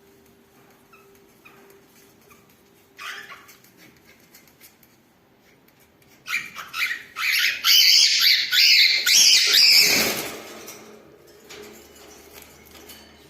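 Cockatiels mating: a few short chirps, then about four seconds of loud, rapid, harsh chattering and squeaking that peaks and fades away.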